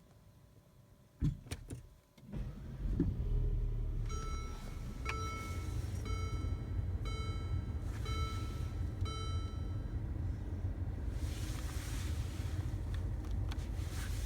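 A Mercedes-Benz CLA180 (W117) starting. A couple of knocks come about a second in, then its engine catches and settles into a steady idle. A warning chime rings about once a second for several seconds, and a short hiss comes near the end.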